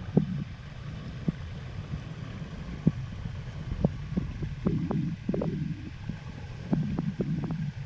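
Low steady rumbling noise with scattered light knocks and clicks, busier about five seconds in and again near the end.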